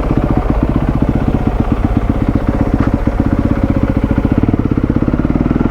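Enduro dirt bike engine running steadily at low revs with an even, rapid pulse, the rider working the clutch to loosen clutch plates on a bike that has stood for a while.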